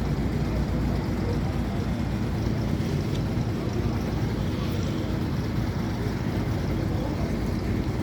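Old car's engine running steadily, a low, even drone with no pauses or changes.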